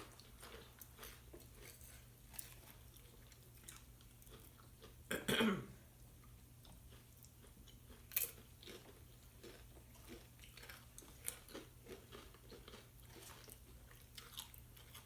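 Tortilla chips being chewed up close, with scattered sharp crunches and mouth noises. A brief voice sound about five seconds in.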